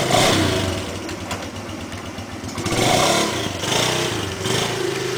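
ATV engine running, its revs rising and falling a few times before holding steady.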